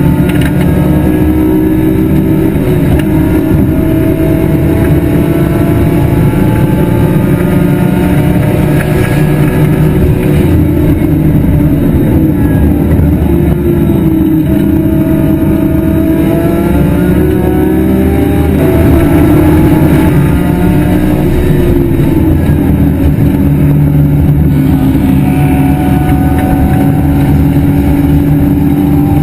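E46 BMW M3 race car's engine under hard acceleration on track, heard onboard. The pitch climbs through the revs and drops back several times as the driver shifts and lifts.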